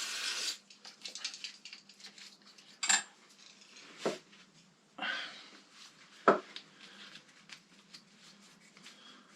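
A short blast of compressed air, then scattered light metal clinks and knocks of parts and tools being handled, with another brief hiss about five seconds in.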